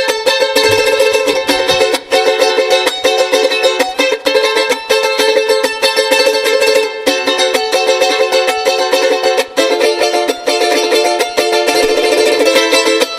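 Charango strummed briskly in a steady rhythm, playing a folk tune.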